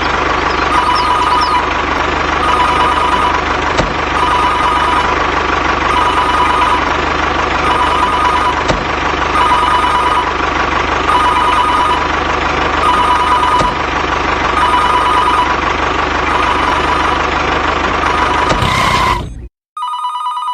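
An electronic two-tone ringing tone repeats about every two seconds over a steady hiss and low hum, then cuts off abruptly near the end, returning briefly once.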